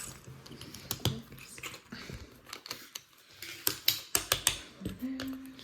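Plastic LEGO bricks clicking and clattering as pieces are handled and snapped together, with a quick run of sharp clicks about three and a half seconds in.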